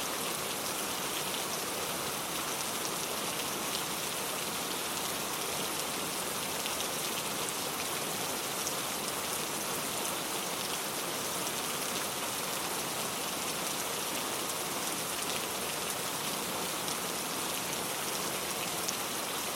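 Steady heavy rain falling, an even hiss with scattered individual drop patters.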